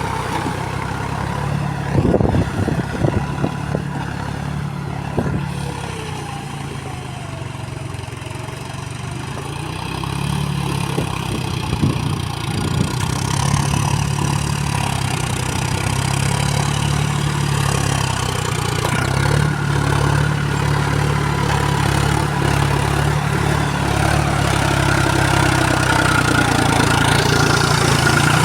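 Diesel engine of a backhoe loader and tractor at work running steadily, with a cluster of sharp knocks and clanks a couple of seconds in and a few more later; the engine grows slowly louder in the second half.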